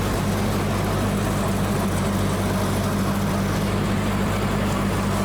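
Tractor engine running steadily at a constant speed, a level low hum with no change in pitch.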